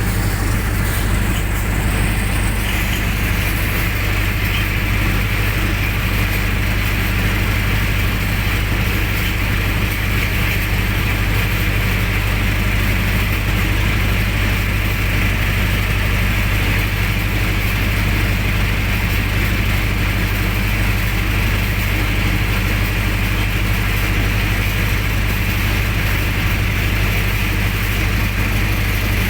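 Generator set engine running steadily at a constant speed, with a strong low hum.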